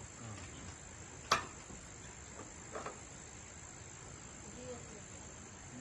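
Insects droning steadily at a high pitch. A single sharp crack comes about a second in, then a couple of softer knocks near three seconds.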